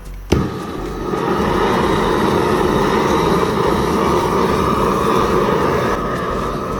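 Shinfuji Power Torch RZ740, a large butane gas torch, clicks once as it is lit about a third of a second in, then its flame burns with a loud, steady rushing noise.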